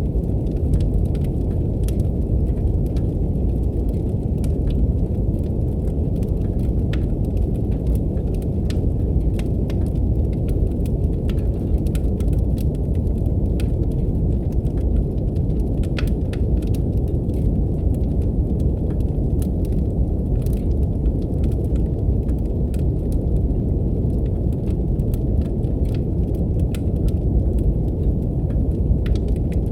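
Steady deep brown noise with a wood fire crackling over it: scattered small pops and snaps at irregular intervals.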